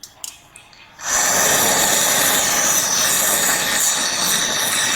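A few light clicks, then about a second in a loud, steady hiss of pressurised gas jetting out starts suddenly and keeps going.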